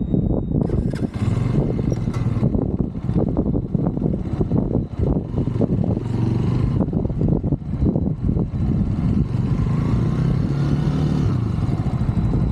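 Small 125cc Brixton motorbike's single-cylinder engine running at low speed, rough and uneven with constant buffeting noise; the engine note settles steadier near the end.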